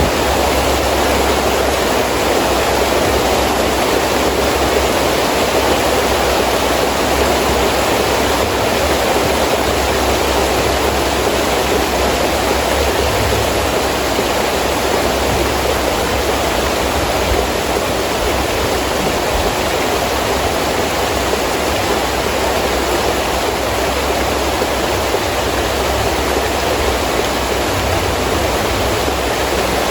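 Heavy rain pouring steadily, with wind making a low rumble underneath.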